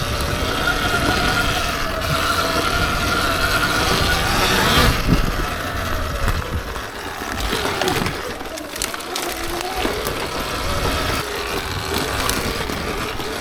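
Surron Ultra Bee electric dirt bike riding along a trail: the electric motor's whine rises and falls in pitch with the throttle, over a steady low rumble.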